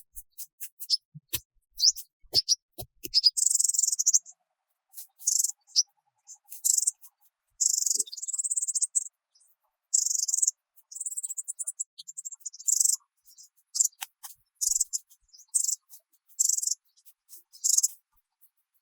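Insects chirping in short, high-pitched buzzing trills that repeat irregularly, after a run of sharp clicks in the first few seconds.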